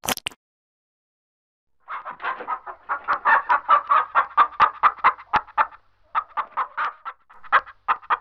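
An animal calling in rapid runs of short notes, about five a second, starting about two seconds in, with a brief break near the middle.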